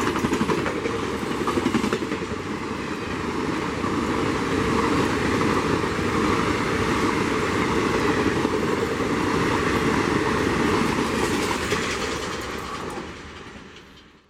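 An Indian Railways train running past close by, its wheels clattering over the rail joints with a dense, steady rumble. It fades away in the last couple of seconds and then cuts off suddenly.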